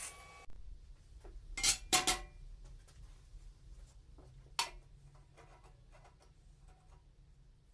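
Sharp metal clanks and clinks: two loud knocks close together near the start, a single one a few seconds later and fainter clicks after it. A brief hissing noise cuts off abruptly about half a second in.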